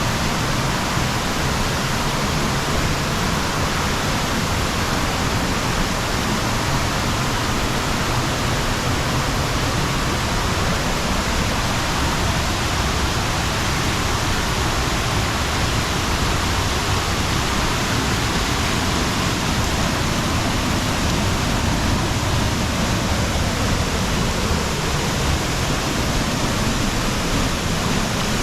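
Heavy falling water, a steady, even, loud rush with no let-up.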